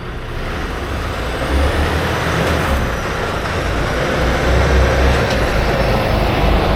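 Tractor-trailer running down the road: a steady heavy engine rumble with road noise, growing slightly louder.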